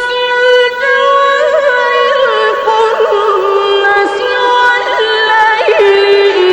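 A male reciter's voice in melodic mujawwad Quran recitation, holding one long drawn-out note. It then slides down a little and winds through several ornamented turns without a break.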